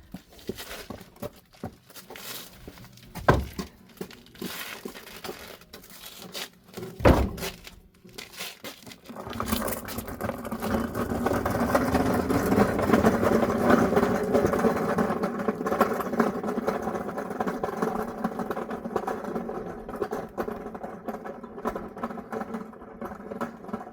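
Two heavy thuds of firewood being set down, about three and seven seconds in. About nine seconds in, a small motor starts running steadily and keeps going.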